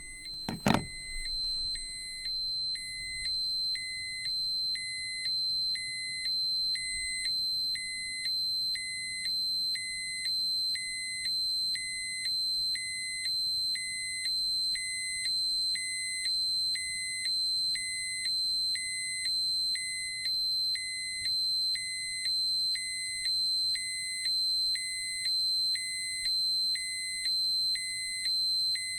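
Radiation dosimeter alarm: a steady high-pitched electronic tone with a lower beep pulsing on and off about once a second. A single sharp click sounds about a second in.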